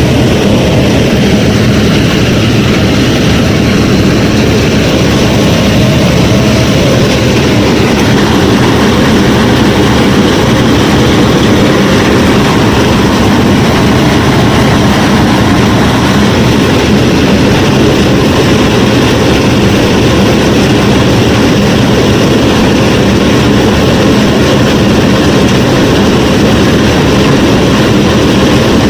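A DIY miniature combine harvester's motor and threshing mechanism running steadily under load, a loud, continuous mechanical drone.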